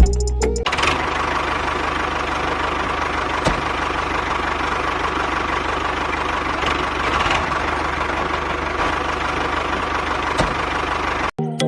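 Small engine or motor running steadily, with a fast, even chugging underneath. It starts just under a second in and cuts off suddenly near the end.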